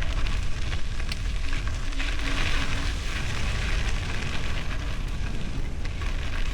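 Wind buffeting the microphone of a camera on a bicycle being ridden, with a steady crackle of tyres rolling over gravel and a few sharp ticks.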